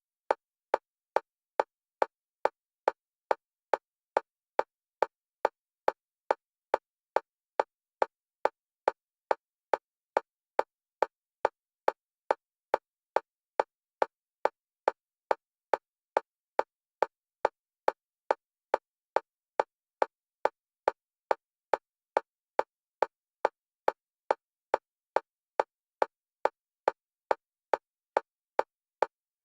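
Electronic metronome click of one pitch, repeating at a fast, even pace of just under two clicks a second, alternating between the left and right stereo channels for EMDR bilateral stimulation.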